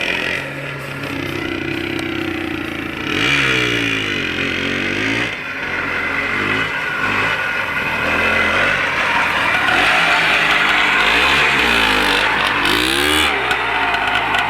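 IZh Planeta Sport single-cylinder two-stroke motorcycle engine driving a homemade tracked snowmobile, revved up and down several times so its pitch rises and falls, most clearly about three seconds in and again near the end.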